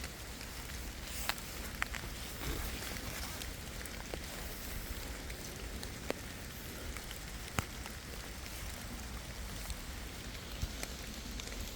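Steady rain falling in woodland, an even hiss with occasional sharp single drop taps.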